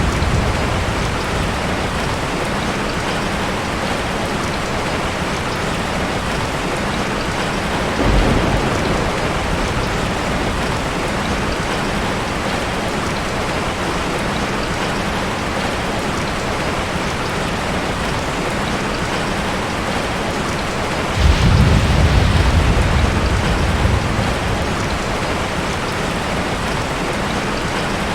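Steady heavy rain falling, with low thunder rumbling briefly about eight seconds in and again, louder and for a few seconds, a little past twenty seconds in.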